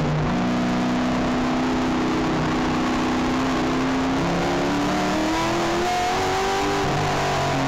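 Touring car's race engine heard from inside the car at racing pace. The engine note breaks for a gear change just after the start and again near the end, and climbs slowly in between as the car slows for a corner.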